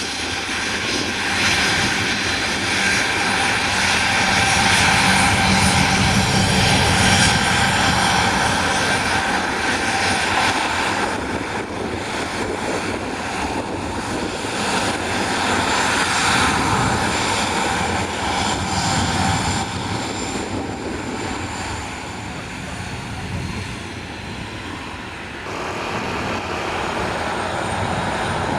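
Airliner engines running loud and steady, with a high whine over a full rush of noise. The sound shifts abruptly near the end.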